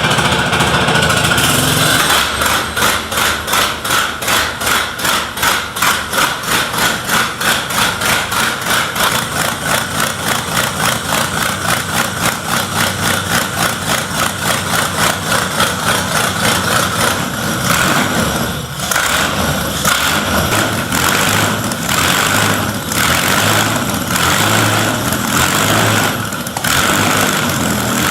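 1910 J.A.P. 4.4-litre air-cooled V8 aero engine running on its first start, with a fast, regular pulsing beat. About two-thirds of the way through, the beat briefly dips and the running turns steadier.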